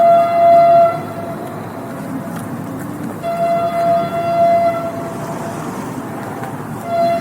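Train horn sounding in long, steady blasts, three times, over the continuous rumble of a passing train.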